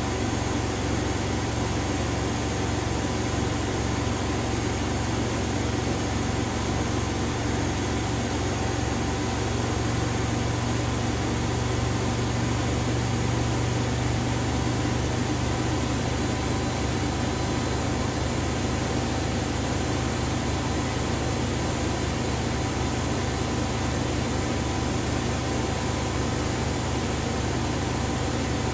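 Washing machine running with a steady mechanical hum and whir.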